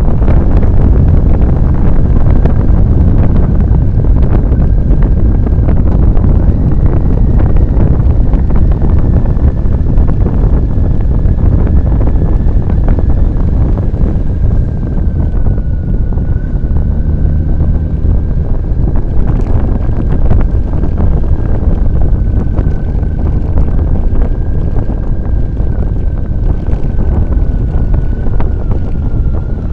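Heavy wind buffeting the microphone on a moving motorcycle, a loud steady low rush, with the motorcycle's engine running beneath it and a faint steady high whine throughout.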